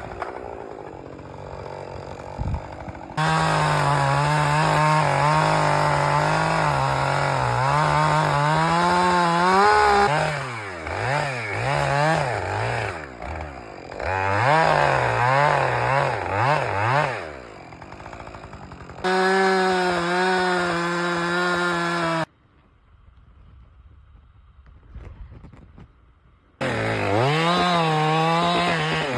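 Husqvarna chainsaw running at full throttle through a tree, its engine pitch sagging under load and recovering, with several quick rev swings midway. After a quieter first three seconds the saw comes in suddenly. It cuts out abruptly for about four seconds near the end, then is back at full throttle.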